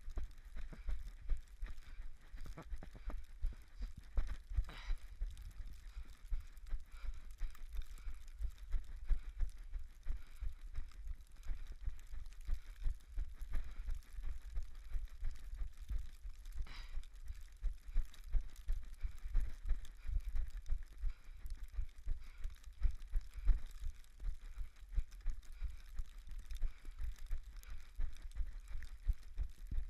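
Running footfalls on a snowy trail, a quick regular rhythm of low thumps, over a faint steady hiss.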